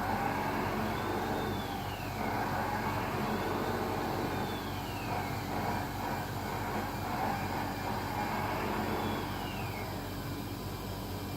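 Radio-controlled Scania truck model running: a steady mechanical whirring and hum, with three short falling whistle-like tones.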